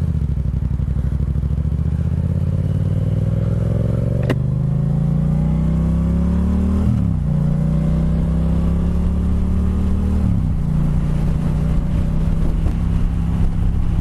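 Motorcycle engine pulling hard, its pitch rising steadily for several seconds, then dipping briefly twice, near the middle and about ten seconds in, as it shifts up a gear, and running steadily between. A single sharp click about four seconds in.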